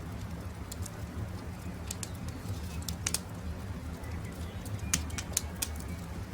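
Wood campfire crackling, with a scatter of sharp pops over a steady low rumble, while birds call.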